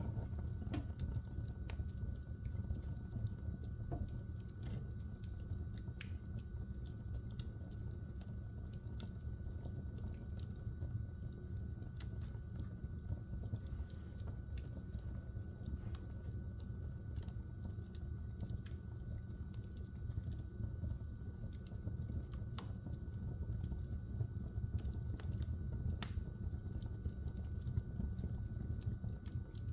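Logs burning in a wood fireplace, crackling with frequent irregular sharp pops and snaps over a steady low rumble.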